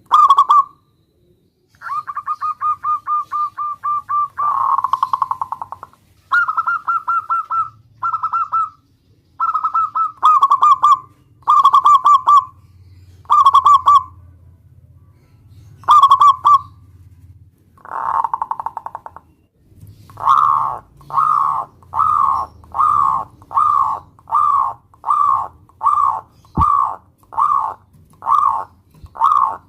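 Zebra dove cooing: short rolling coo phrases, some drawn out into fast trills. In the last third it gives a steady run of separate coos, about one and a half a second.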